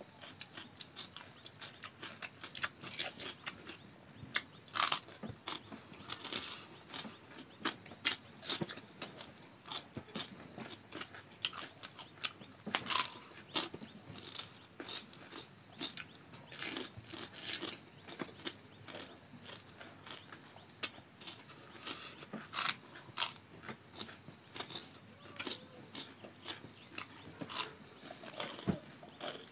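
Close-up eating sounds: chewing, crunching and wet mouth clicks and smacks from two people eating by hand, in irregular bursts with a few louder crunches. A steady high-pitched whine runs underneath throughout.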